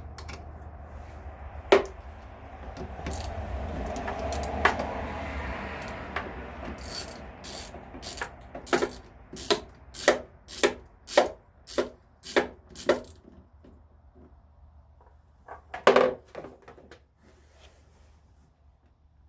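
Hand tools clicking and knocking on a battery terminal as the positive cable is taken off. There is some scraping, then a run of about a dozen even clicks at roughly two a second, and a sharp double clank near the end.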